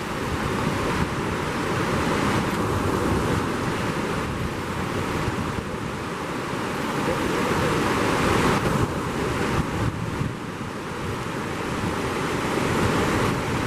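Steady rush of a fast-flowing mountain river, an even wash of noise that swells and eases slightly.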